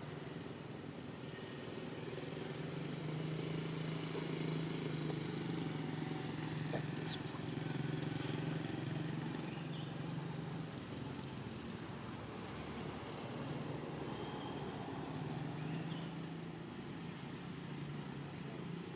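A motor vehicle engine running, a steady low hum that swells for several seconds, eases off, then swells again near the end, as a vehicle passes or idles.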